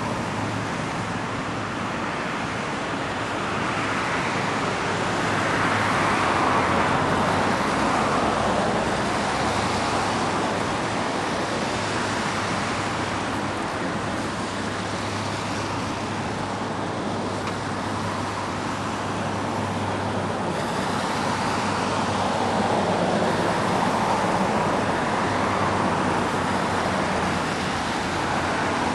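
Electric freight train rolling slowly past behind a JR Freight EF510 electric locomotive: a steady rumble of wheels on rail over a low, even electric hum, swelling twice, about six seconds in and again near the end.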